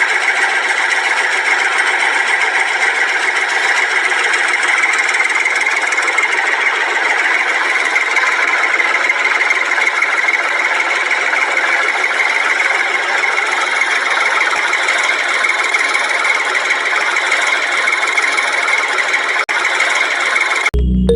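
Small electric power tool running steadily on its motor, working wood, then cutting off suddenly near the end.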